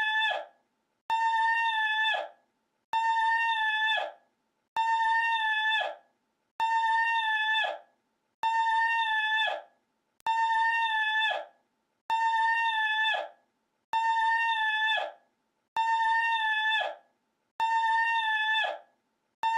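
A looped recording of one high-pitched call, played again and again about every two seconds: each call holds a steady high pitch for just over a second, then drops and cuts off, with silence in between.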